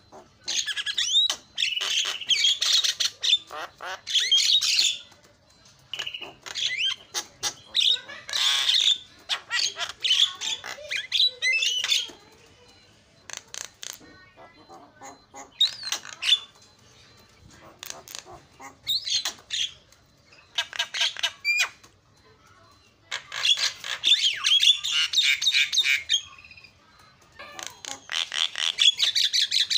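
Javan myna (jalak kebo) singing in bouts of rapid, varied chattering, squawks and quick whistles, with short pauses between the bouts.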